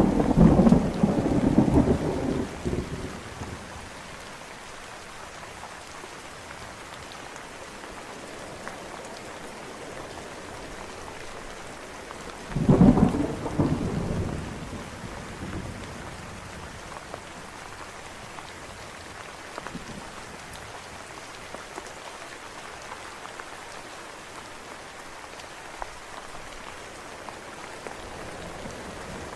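Steady rain falling, with two claps of thunder: one rumbling for about three seconds at the start and another about 13 seconds in.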